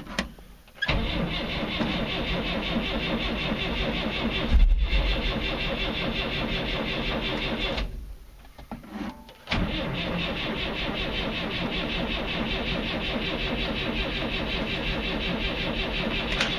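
1965 Datsun PL320's four-cylinder engine cranking on the starter in two long attempts, with a brief louder stumble partway through the first, without catching: a cold engine that has flooded after the throttle was pumped.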